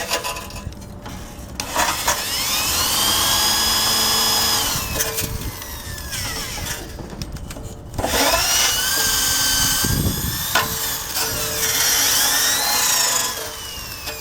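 Handheld power drill with a wire brush, run in two bursts on the motorcycle's metal. Each burst spins up with a rising whine, holds steady for a few seconds and winds down, with scraping in between.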